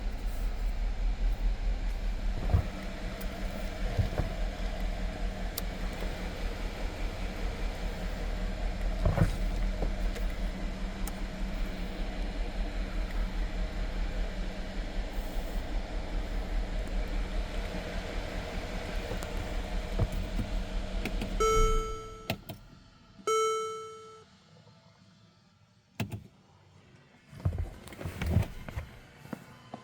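Mercedes-Benz GL550's twin-turbo V8 idling steadily, then shut off about 22 seconds in. Two short electronic chimes follow, then a few thumps near the end.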